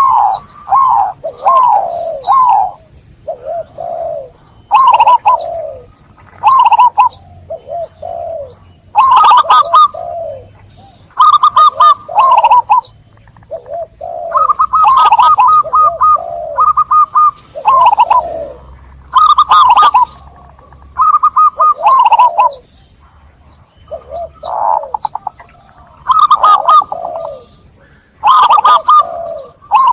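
Zebra dove (perkutut) singing its cooing song: runs of quick staccato notes followed by rolling coos, repeated every second or two with short gaps.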